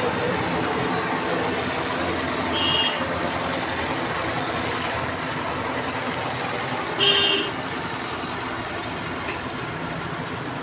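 Steady road traffic and engine noise, with a short vehicle horn toot about two and a half seconds in and a louder one about seven seconds in.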